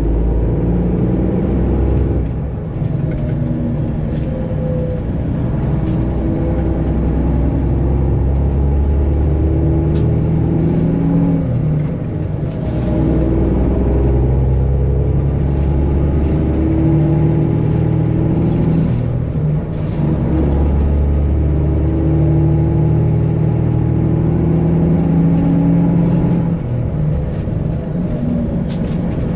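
Straight-piped Detroit Diesel 12.7-litre inline-six in a Freightliner Classic XL semi truck pulling through the gears, its exhaust note breaking at each shift about four times. A high turbo whistle climbs as the engine pulls and falls away at each shift.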